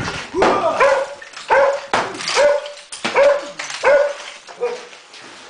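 A dog barking repeatedly, about six barks at an even pace, the last one weaker.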